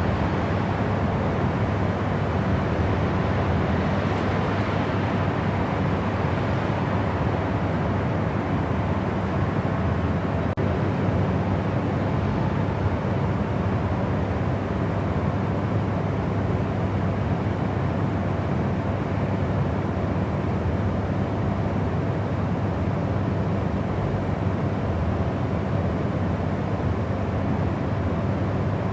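Steady white noise for sleep: an even, unbroken rushing hiss, heavier in the low and middle range and soft in the highs, with no change in level.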